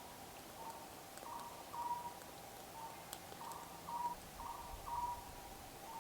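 A bird repeating a two-part call about every two seconds: a short rasping note followed by a clear held note, with a fainter short note between phrases.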